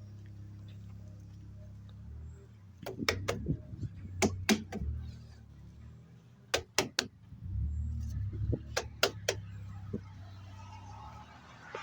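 Truck tires struck by hand to check their inflation: sharp smacks in four quick groups of two or three, the tires rock hard. A low steady engine hum runs underneath.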